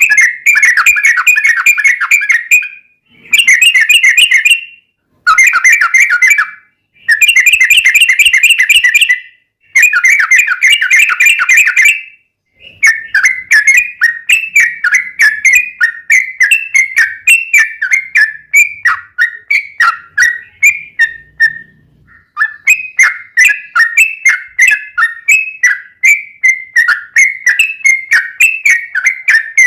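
Yellow-vented bulbul (trucuk) singing loudly in long, rapid, bubbly chattering phrases, a lure song for making other trucuk answer. The first half comes in dense bursts of a second or two with short breaks; from about halfway it runs on as a fast string of chirping notes, several a second, with one brief pause.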